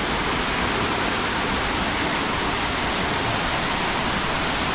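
Dry Falls waterfall rushing steadily and loudly, an even wash of falling water with no breaks or changes.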